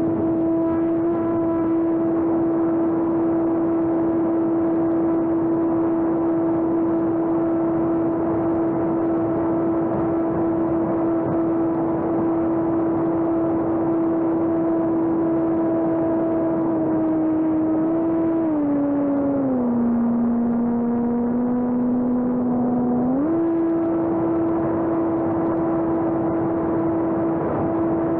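Electric RC airplane's motor and propeller whining at a steady pitch; a little over halfway through the pitch steps down as the throttle is eased, holds low for a few seconds, then jumps back up to full.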